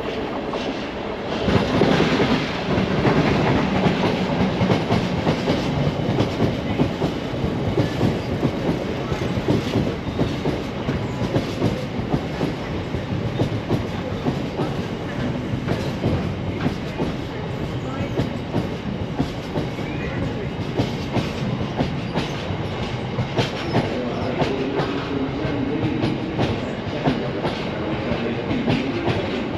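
A train passing on the line, its wheels clattering over rail joints in a fast, steady run of clicks. It gets louder about a second and a half in.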